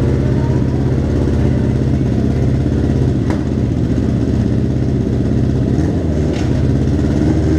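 A motor vehicle's engine running steadily at a low, even speed, with a single sharp click about three seconds in.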